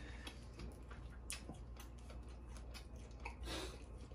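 Faint close-up eating sounds of someone chewing lobster meat: soft, irregular clicks and smacks. A steady low hum runs underneath.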